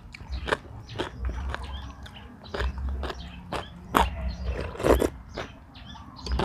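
A person eating close to the microphone: chewing and biting with many irregular crunchy clicks and wet smacks, the loudest about four and five seconds in, over a low thump that recurs about once a second.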